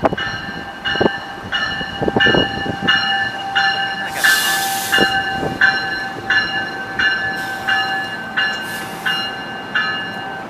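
Train's locomotive bell ringing steadily, about one and a half strikes a second, over a steady whine, with a few short bursts of air hiss; the bell stops right at the end.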